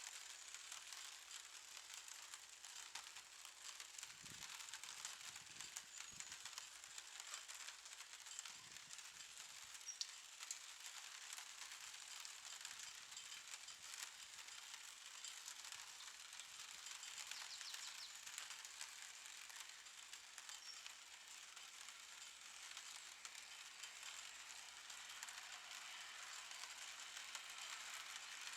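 Faint steady patter and hiss of light rain, with a few soft low thuds, and a faint steady hum coming in near the end.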